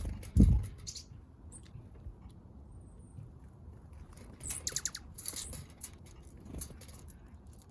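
Small backyard songbirds at a feeder: a dull thump about half a second in, then a quick run of high chirps around four and a half seconds in and another short call near the end, with faint scattered ticks of pecking.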